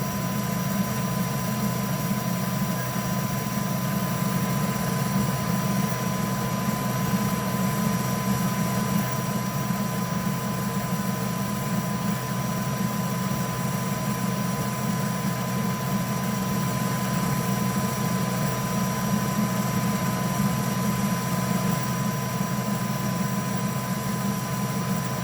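3D printer running: a steady motor and fan hum with a thin, constant high whine over it.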